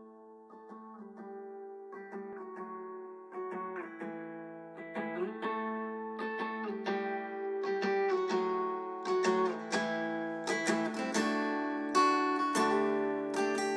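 Instrumental intro of an acoustic rock song: strummed acoustic guitar chords, growing steadily louder, with a lower bass note coming in about eleven seconds in.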